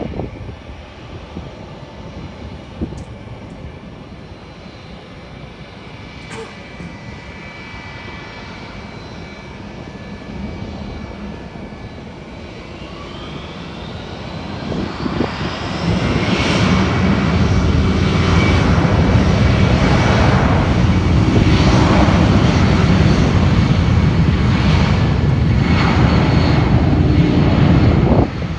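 Jet airliner's engines: a whine rises in pitch, then the engine noise swells and stays loud for about twelve seconds before stopping suddenly near the end.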